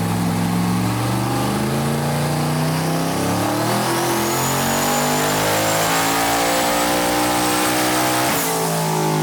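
Twin-turbo Chevy S10's engine making a wide-open-throttle pull on a chassis dyno. The revs climb steadily for about eight seconds, with a high whine rising in partway through. The engine then lets off suddenly near the end and the revs fall.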